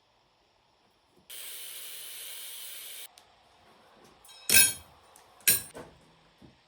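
A steady rushing noise that starts and cuts off suddenly after about two seconds, followed by two sharp knocks about a second apart, from work on the concrete forms.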